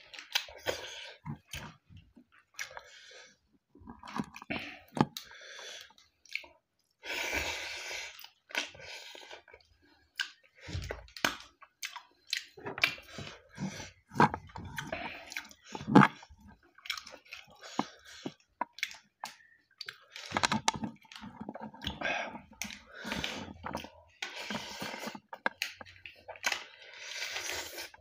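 A person chewing mouthfuls of rice and meat curry eaten by hand, picked up close, in short irregular bouts with clicking mouth sounds.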